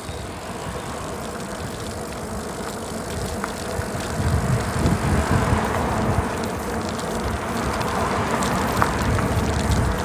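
Wind rushing over the microphone of a moving bicycle, with a low buffeting rumble that grows louder about four seconds in.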